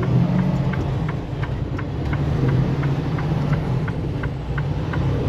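Semi-truck diesel engine running in the cab with a steady low hum, and the indicator relay clicking evenly about three times a second.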